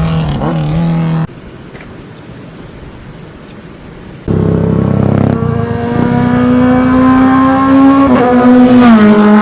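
Superbike engine at high revs, loud and steady, dropping abruptly to a quieter rumble about a second in and coming back loud about three seconds later. The pitch climbs slowly, then falls sharply near the end: a quick upshift, the kind a quickshifter gives.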